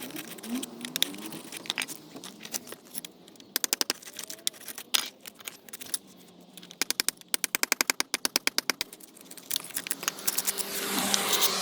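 Old, loose mortar pointing being raked out from between patio slabs: runs of sharp clicks and taps from a tool chattering along the joints, fastest near the end at about ten a second, with a few single cracks.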